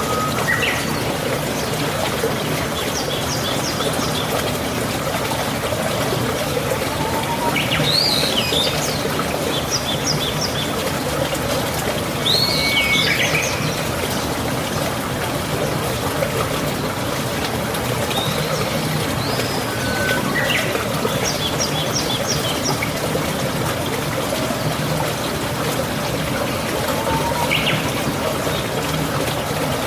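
Steady rush of flowing water, with birds calling every few seconds over it in short chirps, quick rising and falling sweeps and brief rapid tick series.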